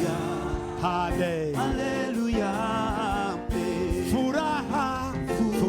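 Swahili gospel worship chorus sung over instrumental backing, the voice holding and bending long notes with vibrato above a steady accompaniment and a light beat.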